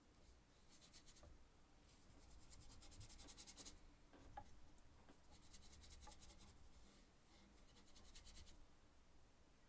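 Faint scratchy brushing of a paintbrush working oil paint on a small linen panel: four spells of quick back-and-forth strokes with short pauses between them.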